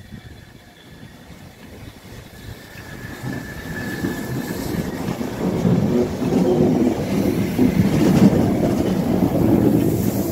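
Train hauled by the Pt47 steam locomotive approaching, its low rumble and wheel clatter growing steadily louder over the first several seconds, then holding close by.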